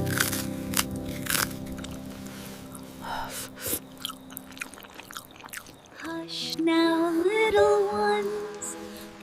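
A series of short, crisp crunches over soft background music, then from about six seconds in a gentle lullaby-like melody.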